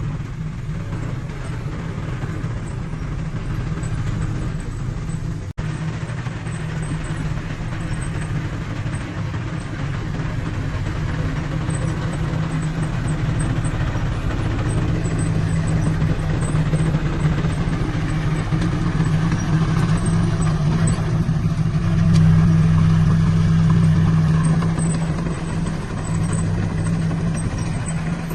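Heavy diesel earthmoving machinery running steadily with a low drone. It grows louder about 22 seconds in and eases back a few seconds later.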